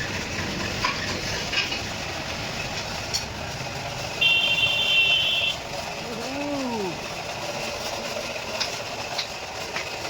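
New Holland 45 HP tractor engine running steadily. About four seconds in, a loud, steady high tone sounds for over a second, and shortly after there is a brief call that rises and then falls in pitch.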